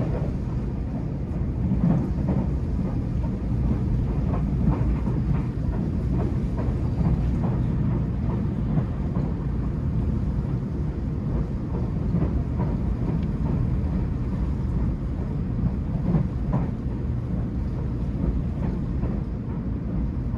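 Tobu Liberty (500 series) limited express train running: a steady low rumble with scattered faint clicks.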